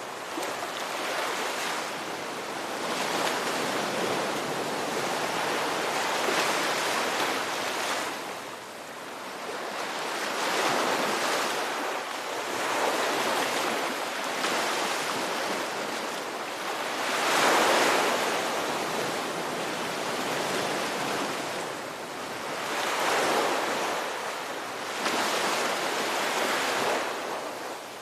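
Ocean surf: waves breaking and washing in one after another, swelling and fading every few seconds, one swell about two-thirds of the way through louder than the rest.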